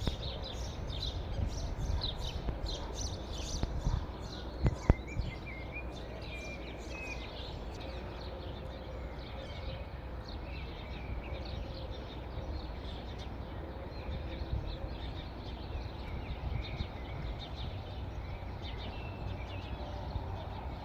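Many small birds chirping in quick, high notes, densest over the first few seconds and then more scattered, over a steady low rumble. A couple of sharp knocks stand out about five seconds in.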